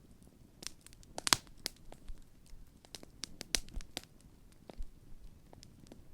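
Freshly lit wood campfire crackling, with irregular sharp pops. The loudest pop comes just over a second in.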